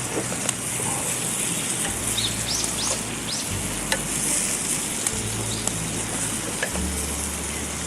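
Chicken frying in teriyaki sauce, sizzling steadily with a few small pops about two to three seconds in.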